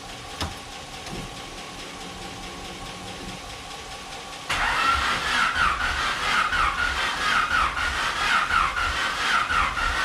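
After a click and a few seconds of a steady low hum, a starter motor cranks a turbocharged Honda D15B2 four-cylinder engine from about halfway through with an even, rhythmic whine and chug, the engine turning over but not catching on its first start after a swap.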